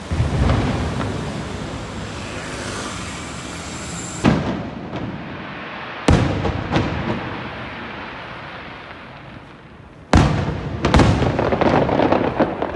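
Aerial firework shells bursting overhead: a series of sharp booms several seconds apart, each with a rumbling, echoing tail, and a quick run of bursts near the end.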